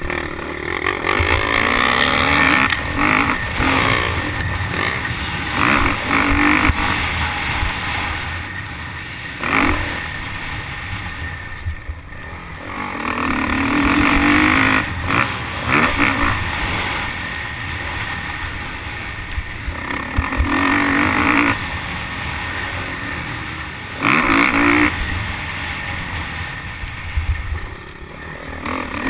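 Motocross bike engine heard from the rider's helmet camera, repeatedly revving up hard and backing off as the throttle is opened and closed, in bursts a few seconds long.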